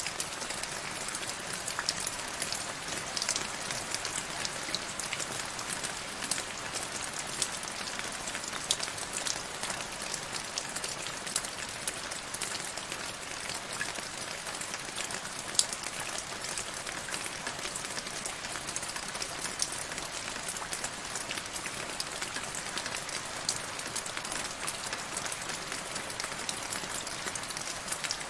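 Steady rain falling into a shallow puddle on grass: an even hiss dotted with many small drop splashes and ticks.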